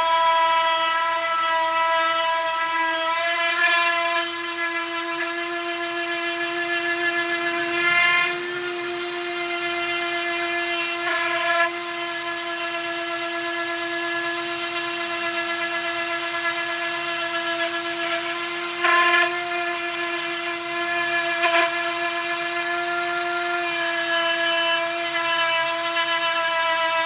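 Electric power sander running steadily on a wooden tabletop, a constant motor whine with brief louder surges a few times.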